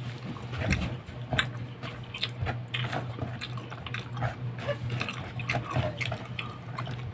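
Wet chewing and lip-smacking of a man eating rice and meat by hand: a run of irregular short smacks and clicks over a steady low hum.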